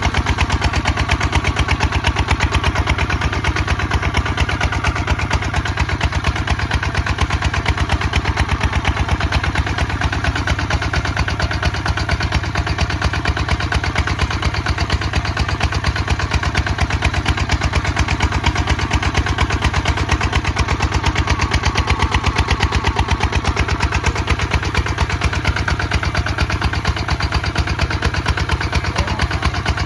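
Kubota ZT 155 DI single-cylinder diesel tractor engine running steadily under plowing load, a fast even chugging of firing pulses.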